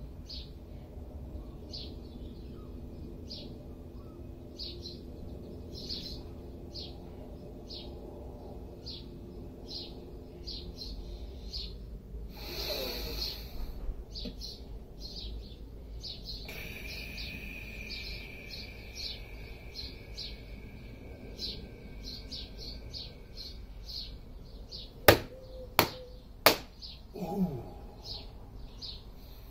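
A small bird chirping over and over in short high notes, about two a second and quickening later, over a low steady outdoor rumble. Near the end three sharp cracks land in quick succession, the loudest sounds here, followed by a short voiced breath from the man.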